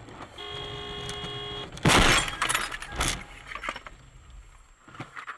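A car horn sounds steadily for about a second, then a car collision: a loud crash with breaking glass about two seconds in, followed by several smaller clattering knocks of debris.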